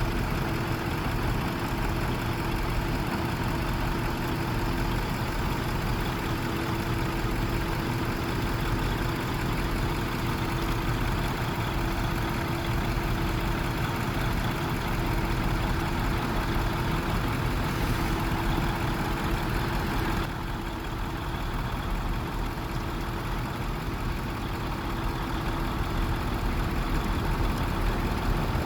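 Truck engine idling steadily, with a steady hum. The level drops a little about two-thirds of the way through and then slowly builds again near the end.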